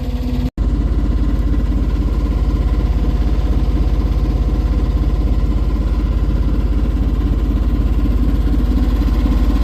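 Boat engine running steadily under power with a fast, even throb, broken by a momentary gap about half a second in.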